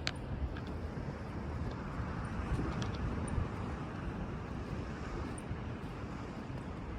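Steady seaside ambience: a continuous rush of wind and surf on a rocky shore, with a few faint ticks.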